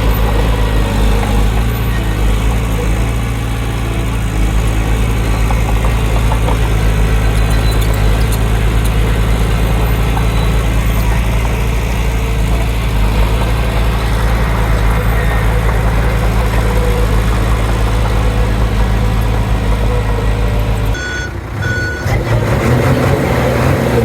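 Heavy diesel engine of earthmoving machinery running steadily with a deep drone. Near the end the sound changes abruptly: two short high reversing-alarm beeps sound, and another engine takes over.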